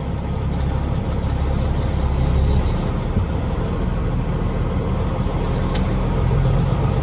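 Heavy truck's diesel engine running steadily, a deep even hum, with a single short sharp click near the end.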